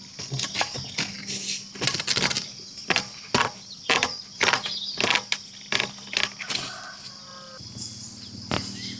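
A series of sharp knocks or taps at an uneven pace, about two a second, over a steady high-pitched hum.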